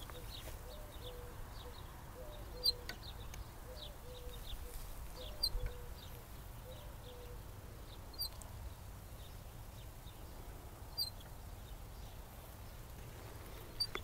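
Small birds chirping in short, high notes over a low outdoor rumble, with a sharp click about every three seconds.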